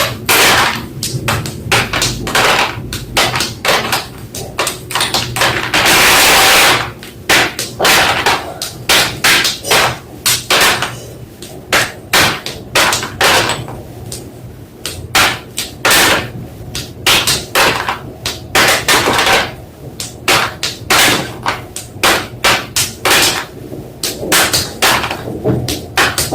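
White school chalk crunching and crushing: a run of sharp, crisp cracks, one or two a second at irregular spacing, with a longer, denser crunch about six seconds in.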